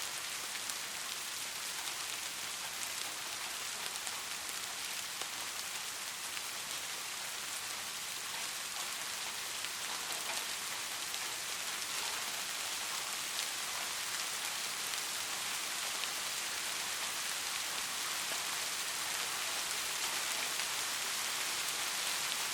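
Steady rainfall: a dense hiss of falling drops with scattered individual drop ticks, growing slightly louder toward the end.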